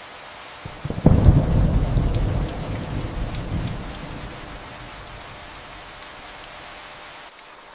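Steady rain falling, with a sudden thunderclap about a second in that rumbles low and fades away over the next few seconds.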